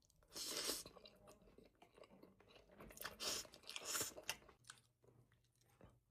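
Close-miked eating sounds: a loud wet bite or slurp about half a second in, then chewing, with a run of sharper crunchy clicks around three to four seconds.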